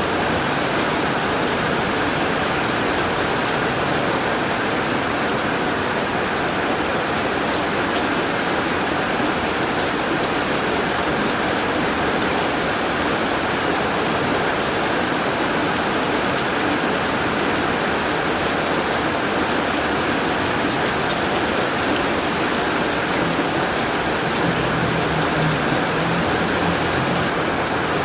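Heavy rain falling steadily on a tin roof: a dense, even patter with scattered sharper drop ticks.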